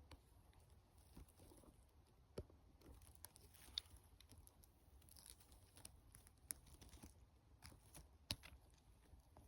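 Near silence, broken by faint, irregular small clicks and crackles.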